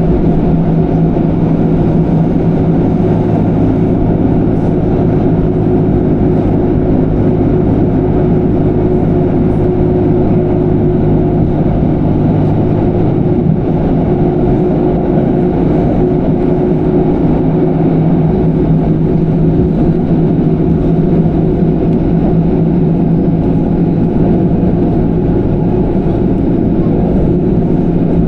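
Electric passenger train running steadily along the line: a constant rumble with a steady low hum that fades for a few seconds around the middle and then returns.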